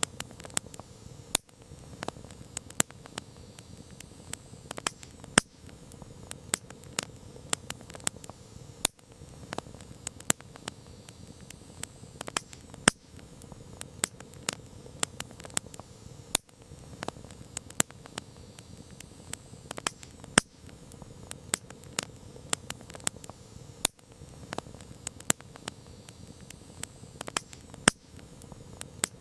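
Campfire crackling: frequent sharp pops and snaps, irregular and some much louder than others, over a steady low hiss of the burning fire.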